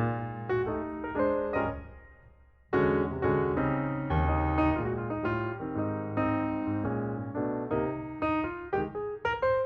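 Background music: a calm hip-hop track led by electric piano over a bass beat, dropping out briefly about two seconds in and coming back in full.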